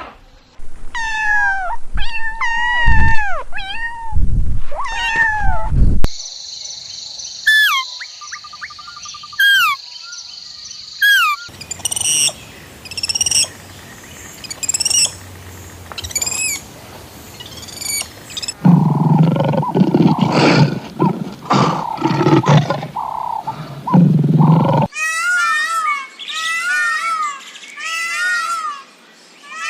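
A string of separate animal recordings: birds calling with repeated downward-sliding notes, then whistles and chirps, then a low rough growling roar of a large animal for about six seconds, and quick chirping bird calls again near the end.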